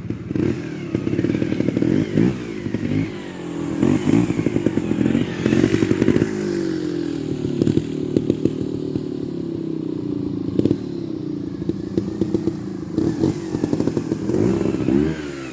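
Trials motorcycle engine revving up and dropping back in repeated throttle blips, with clattering knocks mixed in.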